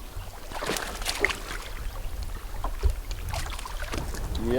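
Wind rumbling on the microphone, with scattered small splashes of water and light knocks in a canoe.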